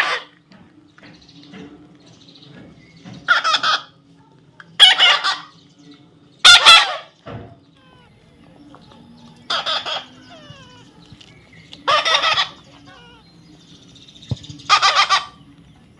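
A baby parrot squawking: six loud, harsh calls of about half a second each, a couple of seconds apart, with faint thin chirps in between.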